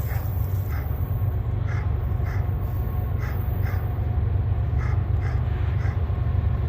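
Freight train passing up a grade: a steady low diesel rumble, with short high squeaks from the train repeating irregularly about twice a second.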